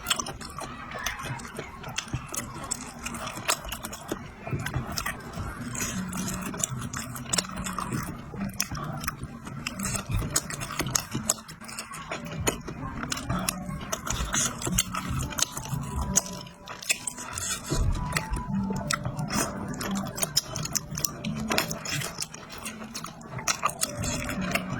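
Close-up eating sounds: biting and chewing with many small crunches and clicks, over light background music.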